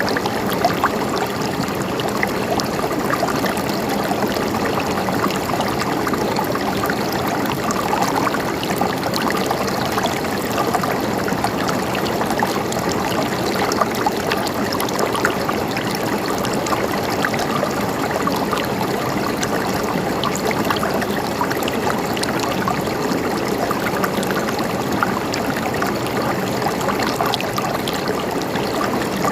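Flowing water in a small stream, gurgling and trickling steadily.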